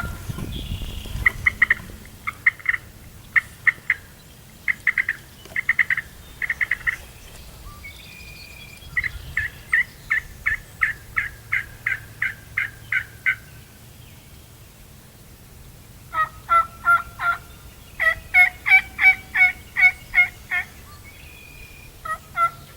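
Turkey yelping in three long runs of sharp, evenly spaced notes, about two to three a second, with a short pair of notes near the end.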